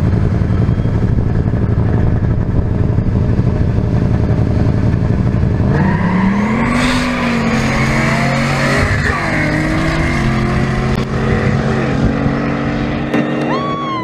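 Drag race cars' engines rumbling loud and rough, then about six seconds in an engine revs up and holds at high revs with a burst of hiss. Near the end a honking call rises and falls.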